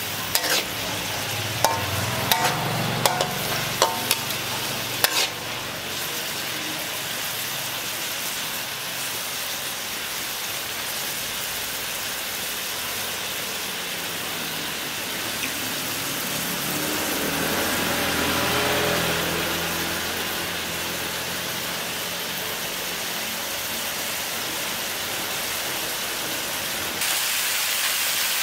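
Insect larvae sizzling as they stir-fry in a wok with lime leaves and garlic. Over the first five seconds or so a metal spatula scrapes and knocks against the wok, then a steady sizzle, with a low rumble swelling and fading about two-thirds of the way through.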